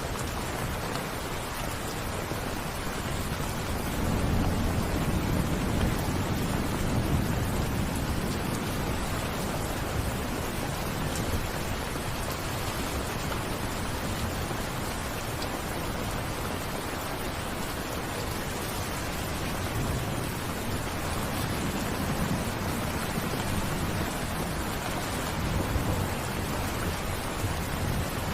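Steady rain, with low rumbles of thunder swelling up about four seconds in and again near the end.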